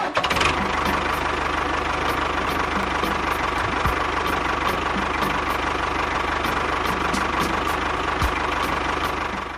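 Engine running steadily at idle with a fast, even beat.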